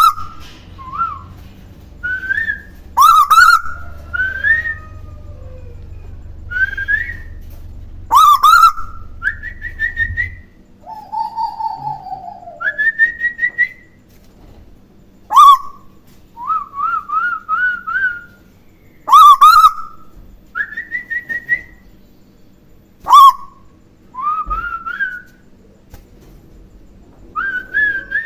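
Whistled call-and-response between a pet tuwu bird and a person whistling to it. A loud, sharp whistled note comes every few seconds, and each is followed by softer rising whistled phrases.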